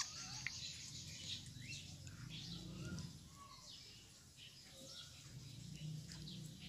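Small birds chirping faintly in the background: many short, scattered chirps, some sliding down in pitch, over a low steady hum.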